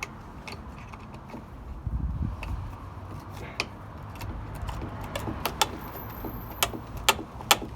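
Sharp clicks and light metal knocks, scattered at first and coming more often and louder in the last few seconds, as old nails at the corners of window trim are bent back and forth and twisted out. A low rumble runs underneath.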